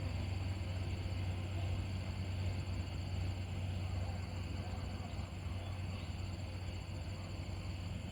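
Heavy trucks' diesel engines running with a steady, low drone over outdoor background noise.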